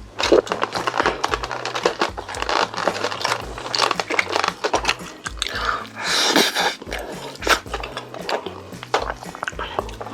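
Close-miked eating: chewing and biting, with crisp crunches and wet clicks coming thick and fast. Soft background music with a steady bass line plays underneath.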